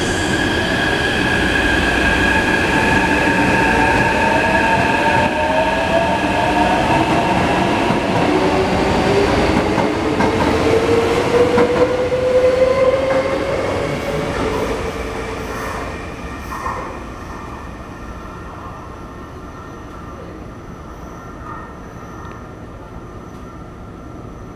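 Taipei Metro C381 train with software-modified traction equipment pulling out of a station. Its motors give off whining tones that rise in pitch as it gathers speed, over the rumble of wheels on the rails, then the sound fades from about 15 s in as the train moves away.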